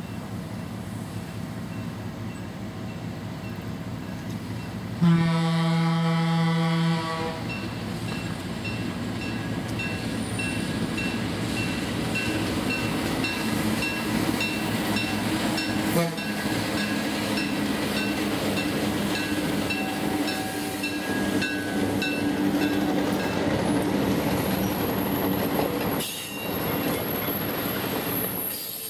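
Diesel locomotive leading a passenger train: its horn sounds one long blast about five seconds in, then a bell rings about twice a second as the engine draws near and passes. The locomotive's running and the passenger cars' wheels rolling on the rails grow louder as the train goes by.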